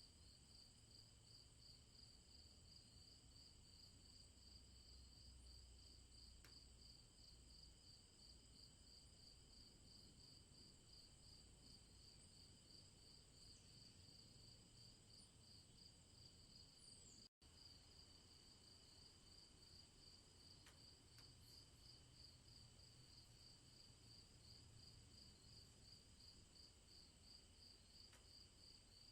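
Near silence with the faint, steady, rapidly pulsing high trill of crickets, broken by a momentary audio dropout about 17 seconds in.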